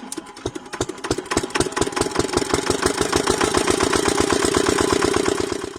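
A small diesel engine starting and running with an even, rapid knocking beat that speeds up over the first couple of seconds, then runs steadily and cuts off suddenly.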